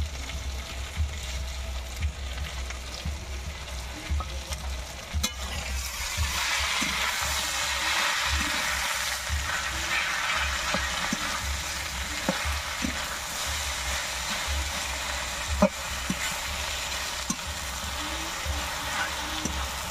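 Chalta (elephant apple) slices frying in oil in a steel karai, stirred with a metal spatula: a steady sizzle that grows louder about six seconds in, with occasional clicks of the spatula against the pan.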